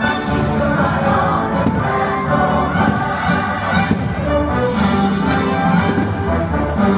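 Orchestral music from the fireworks show soundtrack, playing loudly and steadily.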